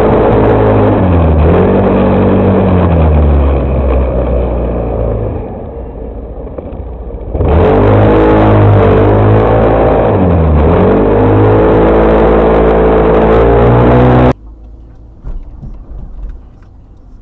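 Motor-vehicle engine revving hard, its pitch dropping and then climbing again twice, as through gear changes. It cuts off suddenly near the end, leaving a much quieter background.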